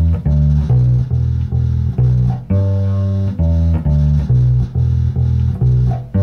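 Bass guitar playing a blues riff in E pentatonic: plucked notes on the open E string and the 5th and 7th frets, about two notes a second, repeating.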